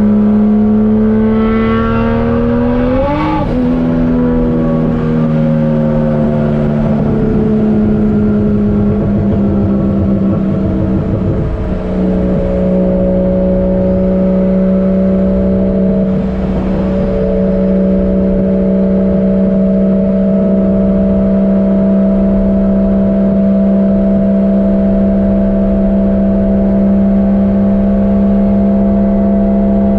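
Turbocharged 1JZ-GTE VVTi inline-six in a Nissan 240SX under way: the engine revs up sharply about three seconds in, the note falls back over several seconds, then holds a steady drone at constant revs from about twelve seconds on.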